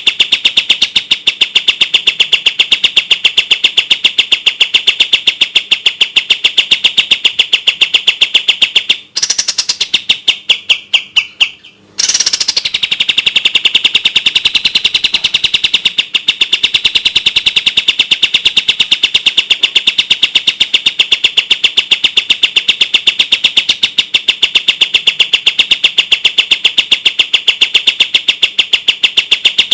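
Kapas tembak bulbul singing its rapid-fire song: a dense, very fast run of clear high notes. About nine seconds in it breaks into a pause of a few seconds with sparser notes and a short rising note, then the rapid run starts again.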